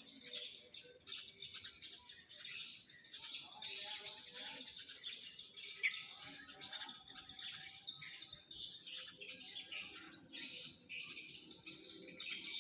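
Many swiftlets twittering at once, a dense, continuous chatter of short, high chirps overlapping one another.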